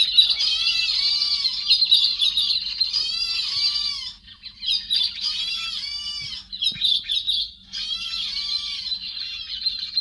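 The bird known in Vietnamese as chim héc xoan, singing a loud, rich song of repeated arching notes in phrases about a second long with short pauses between them. A faint steady hum runs underneath.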